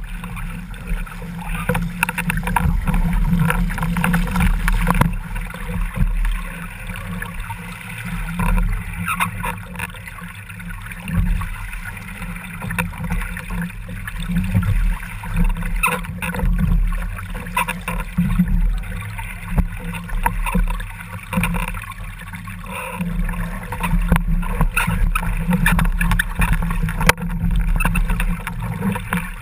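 Water rushing and gurgling past a Laser sailing dinghy's rudder and stern while under sail, with wind on the microphone and scattered small knocks. The noise rises and falls unevenly as the boat moves through the waves.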